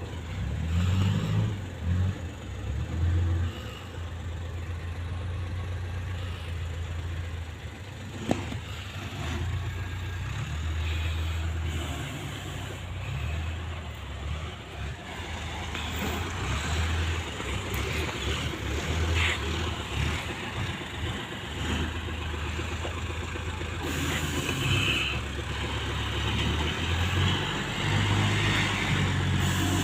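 Diesel engine of a small loader scooping cassava, running steadily with its revs rising and falling again and again as it works.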